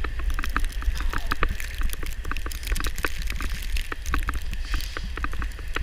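Wind buffeting the camera's microphone as a steady low rumble, with frequent irregular sharp clicks and crunches over it.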